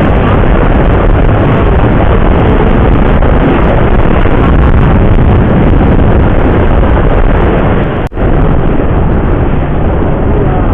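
Loud, steady rush of wind and road noise from a motorcycle ride at speed, with the engine mixed in; the sound briefly cuts out about eight seconds in.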